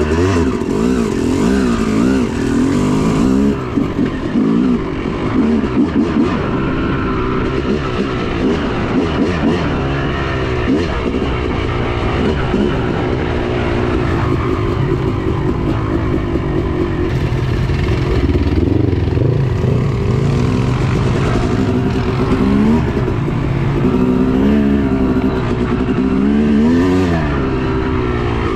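Yamaha YZ250's single-cylinder two-stroke engine running and being warmed up, its pitch rising and falling again and again with throttle blips.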